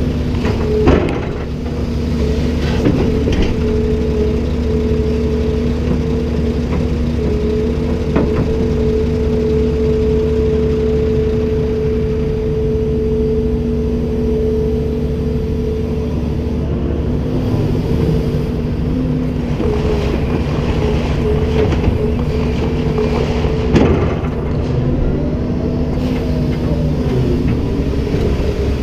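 Komatsu PC290-10 excavator's diesel engine running steadily, with a held tone over the hum that wavers in pitch for a while. A sharp knock sounds about a second in and another later on.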